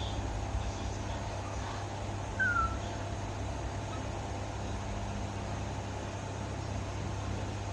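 Baby monkey giving one short squeaky call that falls in pitch, about two and a half seconds in, over a steady low hum.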